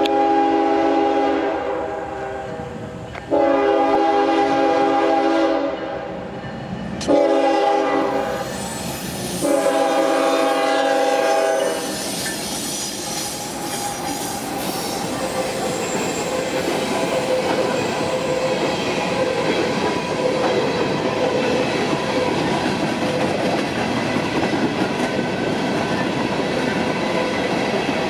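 Norfolk Southern diesel freight locomotive sounding its multi-tone horn in the long-long-short-long grade-crossing signal as it approaches. It then passes close by, followed by empty coal hopper cars rolling past with their wheels clacking over the rail joints and some thin steady squealing.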